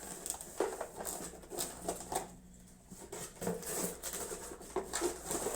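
Scattered light clicks, taps and rustles of computer parts and packaging being handled, with a short lull midway.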